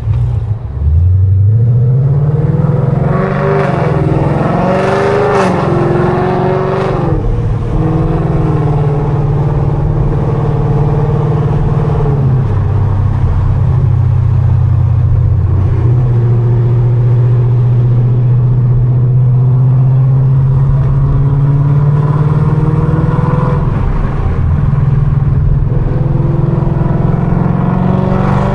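Straight-piped, catless 2019 Mustang GT's 5.0 V8 exhaust under hard throttle. The engine note climbs sharply about a second in and swings up and down for a few seconds while the car is slid. It then holds a steady high note, dips once and climbs again near the end.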